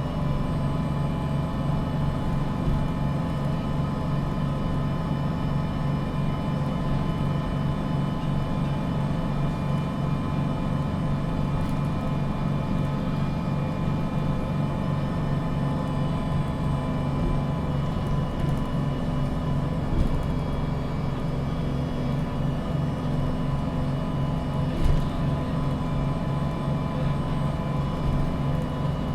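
MAN NG 313 CNG articulated city bus heard from inside the passenger cabin, its natural-gas engine running at a steady pitch with a constant low drone. There are two short knocks, about two-thirds of the way in and again a few seconds later.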